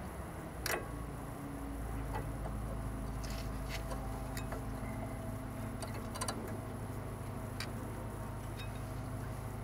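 Scattered light metallic clicks and taps of brake pads and caliper parts being handled and fitted, over a steady low hum.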